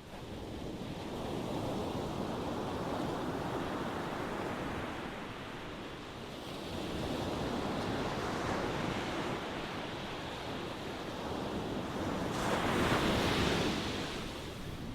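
Ocean waves surging onto the shore in repeated swells of rushing water, the loudest breaking near the end with a bright hiss of surf.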